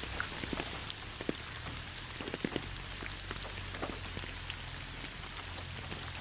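Steady rain falling, with many separate drops tapping close by over an even hiss.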